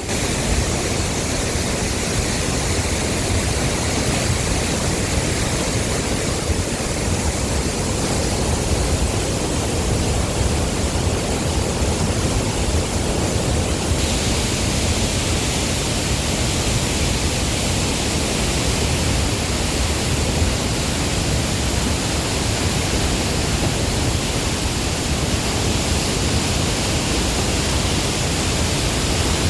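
Large waterfall on a river: a steady, loud rush of falling water with no break.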